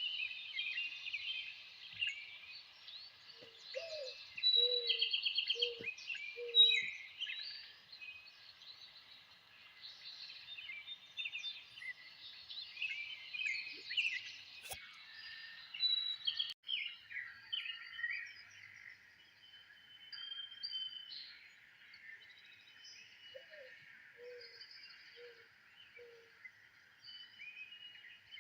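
Chorus of many wild birds singing and chirping together, with a low four-note call heard twice, a few seconds in and again near the end. There is a single sharp click about halfway through, and a second or two later the mix of bird calls changes abruptly.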